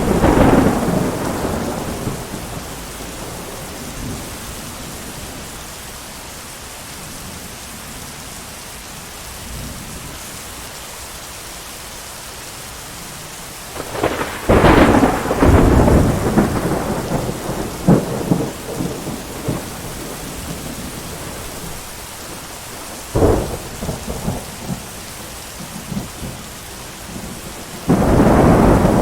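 Steady heavy rain with loud rolls of thunder: a peal at the start, a long rumble about halfway with sharp cracks after it, a single sharp clap a few seconds later, and another rumble near the end.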